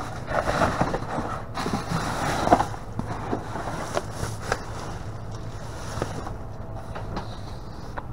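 Rustling and clattering of handled objects for the first two and a half seconds, then a few scattered light knocks over a steady low rumble.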